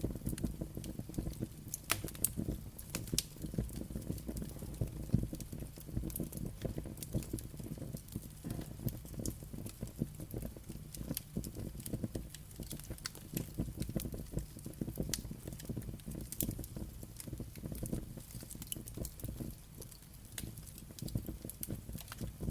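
Wood fire burning, a steady low rumble with frequent sharp crackles and pops throughout.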